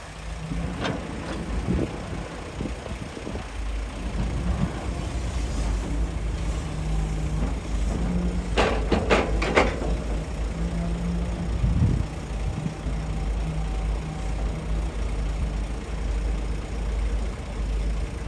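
Excavator's diesel engine running steadily under work, with a quick run of four or five sharp knocks about nine seconds in.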